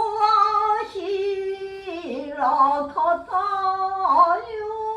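A woman singing in the Yamato-gaku style, holding long drawn-out notes that bend and waver slowly in pitch.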